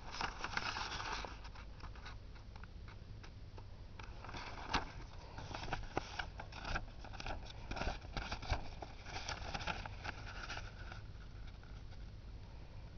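A sheet of paper being folded in half lengthwise and creased: soft rustling and scraping with scattered small crackles.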